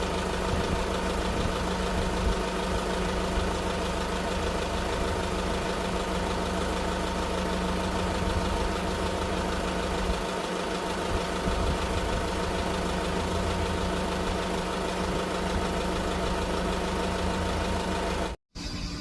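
An engine idling steadily with an even hum, cutting off abruptly near the end.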